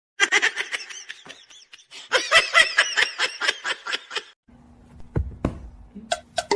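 High-pitched laughter in rapid repeated bursts, about five a second, in two stretches with a short break between them. Near the end come a low hum, a single thud and the start of quick ringing beats.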